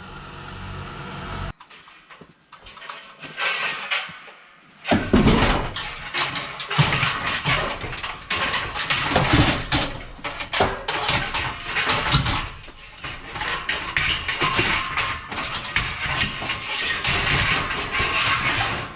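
A vehicle engine running with a dense clatter of rattles and knocks, loud from about five seconds in, after a brief quieter stretch.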